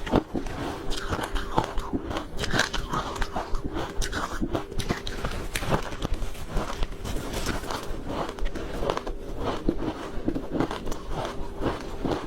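A person biting and chewing crunchy ice close to the microphone: a continuous run of irregular, crisp crunches.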